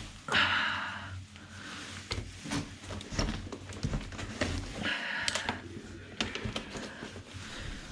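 Handling noises: two short bursts of rustling, about half a second in and again around five seconds in, among scattered small knocks and clicks.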